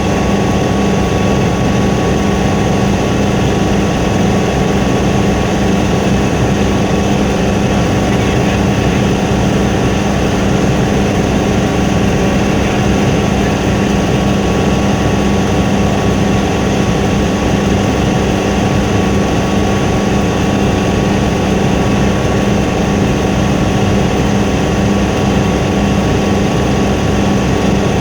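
Helicopter running steadily, a loud constant drone of engine and rotor with a few fixed tones and no change in pitch or level.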